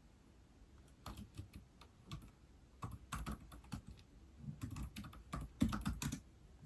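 Typing on an iPad keyboard: an irregular run of key clicks starting about a second in, coming faster and louder toward the end.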